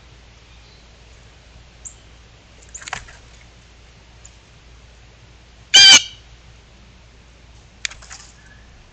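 A bird calling at the water: a few short calls, the loudest and longest about six seconds in, with a shorter one near the end.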